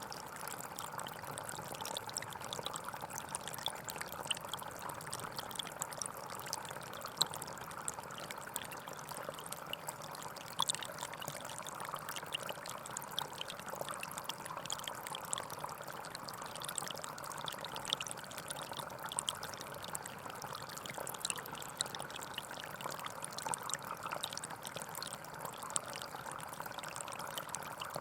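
Small forest stream flowing steadily over stones, with a constant rush of water and many small splashes and trickles.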